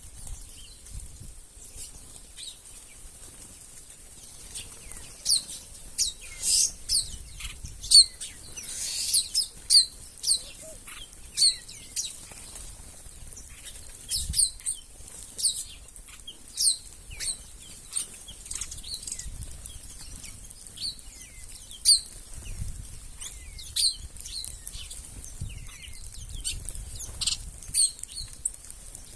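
A flock of wild birds chirping: many short, high, sharply falling chirps that come irregularly and often overlap, over a faint low rumble.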